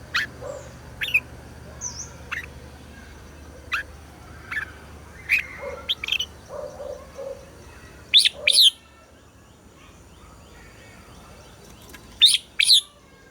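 Red-whiskered bulbul singing: a string of short, sharp whistled notes, loudest in two quick doubles about eight and twelve seconds in.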